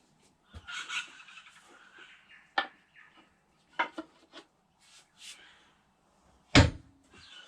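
Scraping on the wooden spotted gum maul handle for a couple of seconds, then a few sharp knocks and one heavy thud about six and a half seconds in, as the handle is worked to fit the maul head.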